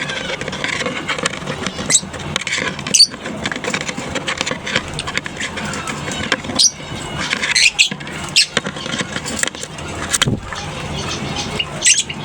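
A colony of lovebirds chattering continuously, with sharp, shrill shrieks breaking out every second or two.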